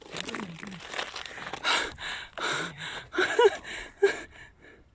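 A man breathing hard in a string of short, noisy breaths, with a few brief wordless vocal sounds, while climbing on foot.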